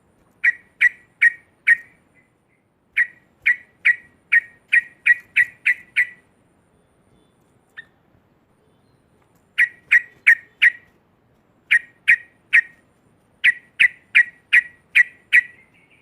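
Yellow-vented bulbul chattering loudly: runs of short, sharp, identical notes, about three a second, in bursts of three to eight with short pauses between.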